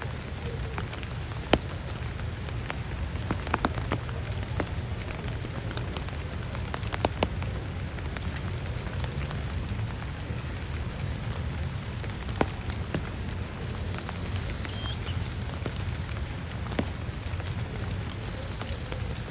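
Steady heavy rain falling, with single large drops striking close by every few seconds as sharp taps.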